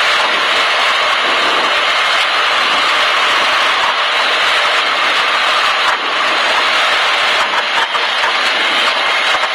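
Cessna 152's four-cylinder Lycoming engine running steadily at taxi power, heard as a loud, even rushing noise from inside the cockpit.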